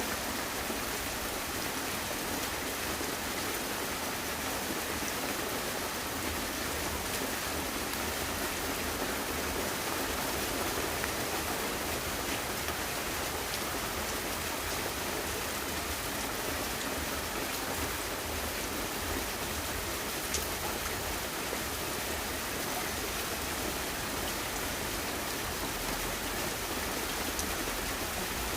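Steady, even hiss of water, heavy rain or fast-running rainwater, with no break or change.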